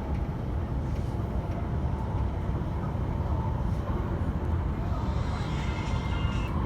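Electric train running on the MTR West Rail Line: a steady low rumble, with faint high-pitched squealing tones joining about five seconds in.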